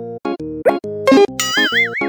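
Bouncy children's background music of short, repeating staccato notes. About one and a half seconds in, a wobbling cartoon-style tone comes in, its pitch wavering up and down.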